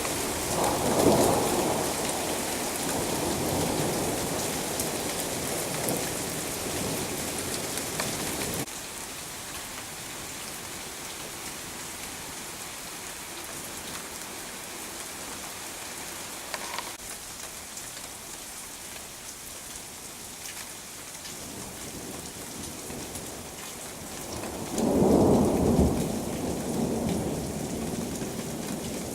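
Steady rain falling and splashing on hard surfaces, a constant hiss. Low rumbles swell under it over the first several seconds, then stop abruptly, and a louder rumble rises and fades about 25 seconds in.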